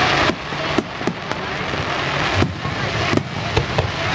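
Fireworks display: about half a dozen sharp bangs at uneven intervals over a steady wash of background noise.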